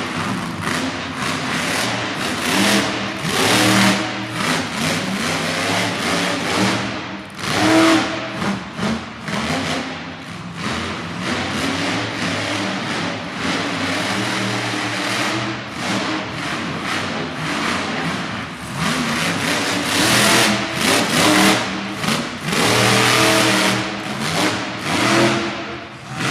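Monster truck engine revving hard and backing off again and again, with repeated bursts of throttle that peak loudest about 8 s in and again about 20 s in.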